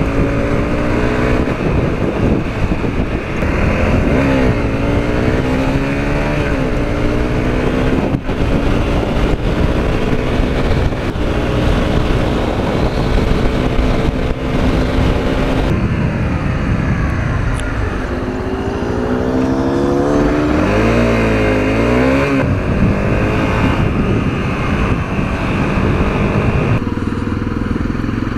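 Honda CRF250L's single-cylinder engine pulling away and accelerating through the gears, its pitch climbing and dropping with each shift, twice over, over a steady rushing noise.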